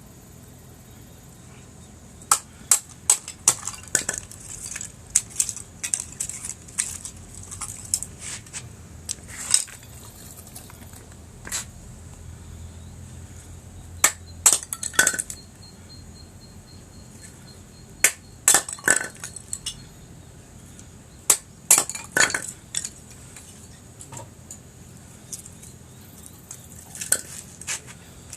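Dry wood cracking and snapping: irregular sharp cracks, some in quick clusters of two or three, over a low steady background.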